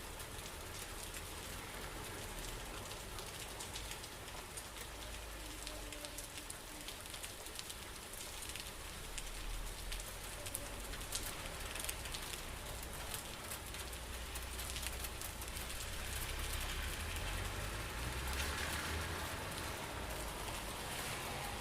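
Steady rain falling, with many close drops pattering over a low rumble. It grows a little louder in the second half.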